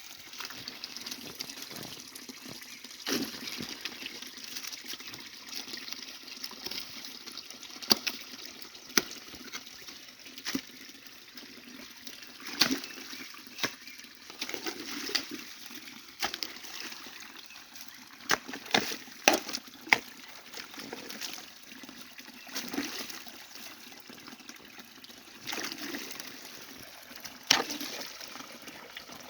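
Stream water running steadily, with many sharp splashes and knocks scattered through it.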